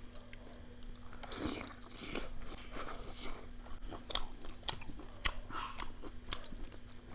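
Close-miked eating: chewing and lip smacking of a rice and pork curry meal, with many short wet mouth clicks throughout.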